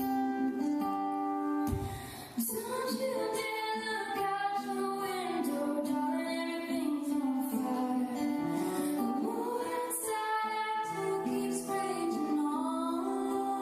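Slow live acoustic ballad: a female voice singing long held notes over acoustic guitar.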